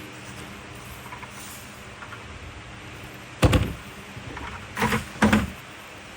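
Three loud knocks over a steady background hiss: one about halfway through, then two close together about a second and a half later.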